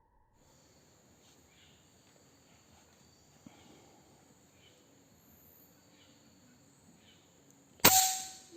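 Steady high-pitched insect chorus, then near the end a single sharp crack of a PCP air rifle shot.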